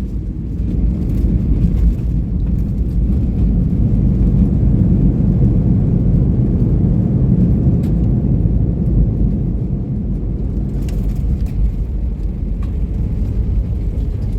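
Ship's engine-room machinery running, a loud steady low rumble, with a few faint clicks near the end.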